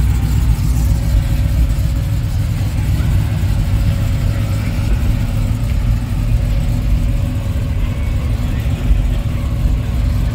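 Box-body Chevrolet Caprice Landau's engine and exhaust running as the car rolls slowly, a steady low rumble.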